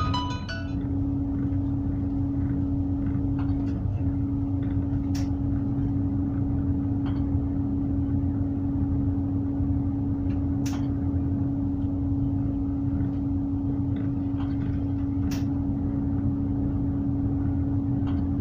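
Tugboat's diesel engine running steadily: a low rumble with a constant hum over it. Three short, sharp clicks or knocks come at even intervals, about five seconds apart.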